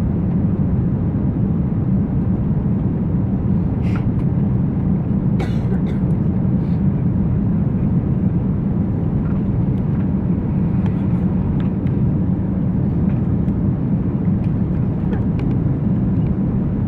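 Cabin noise aboard an Airbus A340-200 airliner in flight: a steady, loud low rumble of engines and airflow, with a few faint clicks and rattles from the cabin.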